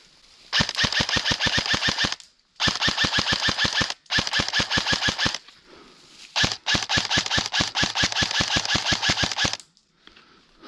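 Airsoft electric gun (AEG) firing on full auto: four rapid rattling bursts of about twelve shots a second, the last one the longest.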